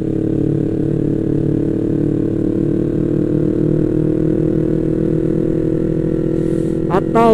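Yamaha MT-25's parallel-twin engine running at a steady cruise, heard from the rider's seat.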